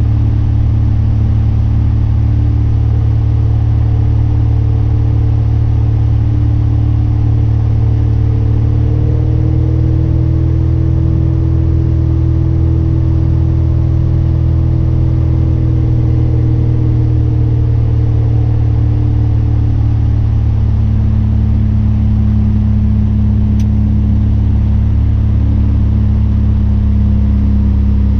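Steady drone of a 1973 Cessna Cardinal RG's engine and propeller, heard inside the cabin. A tone in the drone drifts slightly higher and back down in the middle.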